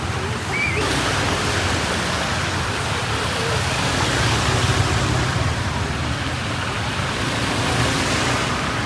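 Road and wind noise from a moving vehicle: a steady rushing hiss over a low rumble, growing louder about a second in.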